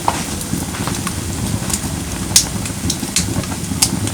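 Firewood burning in a campfire brazier: a steady low rush of flames with scattered sharp crackles and pops, the loudest pop about two and a half seconds in.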